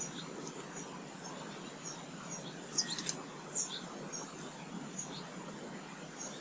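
Small garden songbirds chirping: short, high notes scattered throughout, with a quick cluster of sharper calls about three seconds in, over steady background noise.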